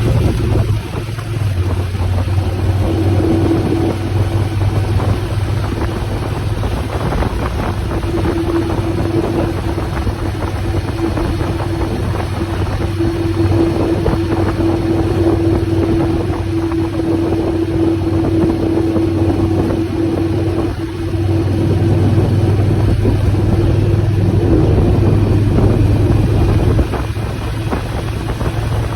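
Motorcycle engine running at a steady cruising speed, a constant low hum, with wind rushing over the microphone.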